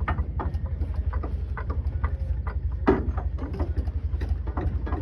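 A steady, rapid low throb of a running engine, with scattered metallic clicks and knocks from work on the truck and one louder knock about three seconds in.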